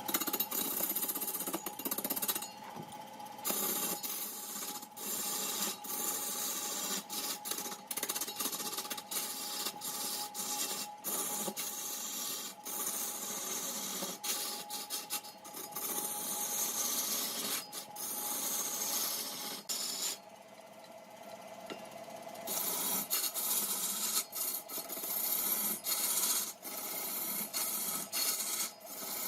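Large wood lathe turning wood: a turning tool scrapes and hisses against the spinning workpiece over a steady hum, with frequent sharp ticks. The cutting drops away for about two seconds around two-thirds of the way through, then resumes.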